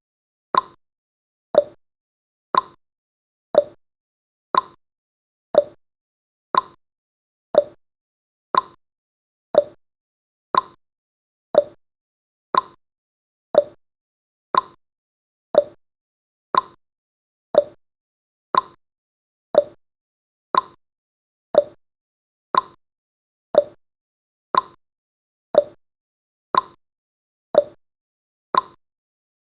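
Clock tick-tock sound effect marking each second of a countdown: one short click every second, alternating between a higher and a lower tick.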